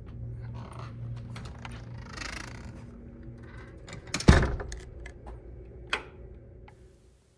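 Scattered small clicks and rattles over a steady low hum, with one sharp knock about four seconds in and a smaller one near six seconds.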